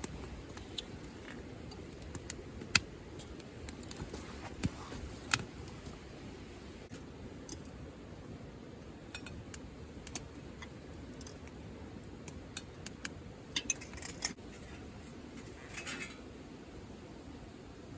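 Irregular sharp clicks and light clinks, scattered singly, with a quick cluster about three quarters of the way through, over a steady low rumble.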